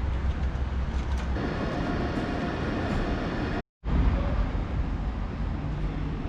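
Railway station ambience with train noise: a steady rumble, and a steady whine running for about two seconds in the middle. The sound drops out abruptly for a moment at an edit, then the station noise carries on.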